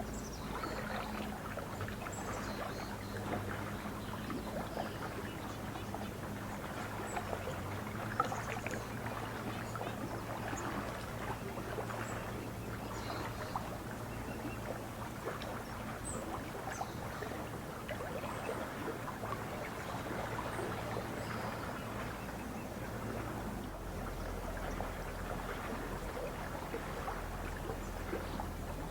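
Lake water lapping and splashing in a steady, irregular patter. A low steady hum runs underneath and drops lower about 24 seconds in, and a few faint high bird chirps come through.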